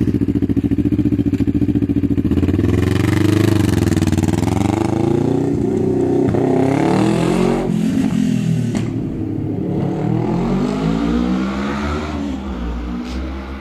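Kawasaki ER-6n parallel-twin engine through a Lazer Extreme slip-on exhaust with its dB killer removed, idling with an even pulse and then revved up and down several times before easing off.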